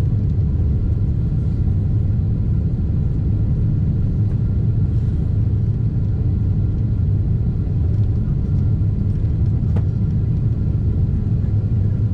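Steady low rumble of a Boeing 747-8 airliner, its engines and airflow heard from inside the passenger cabin.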